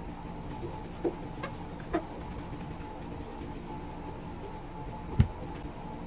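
Handling noises from the repair work: a light knock about a second in, another about two seconds in, and a sharper, louder knock about five seconds in, over a steady background hum.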